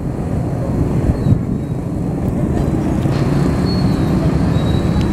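Steady low rumble of a train running on rails, with a faint high squeal coming and going in the second half.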